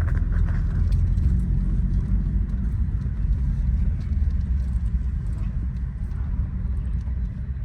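Car engine running at low revs with a steady, deep rumble as the car drives slowly, easing off slightly near the end.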